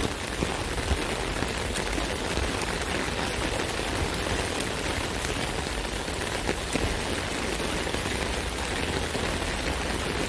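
Steady rain falling on an umbrella, a dense even patter of drops hitting the canopy.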